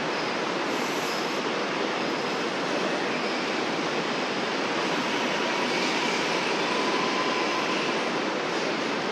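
Metro Melbourne electric suburban train running through the station without stopping: a steady rumble of wheels on rail, with faint thin whines above it.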